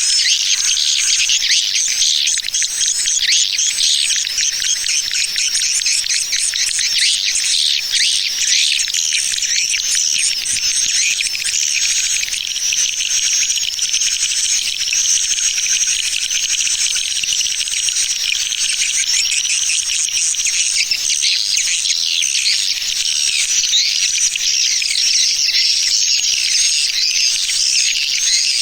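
Swiftlet lure recording of the 'tarik' (pull-in) type: a dense, unbroken chorus of edible-nest swiftlet chirps and twitters, high-pitched, used to draw swiftlets into a swiftlet house.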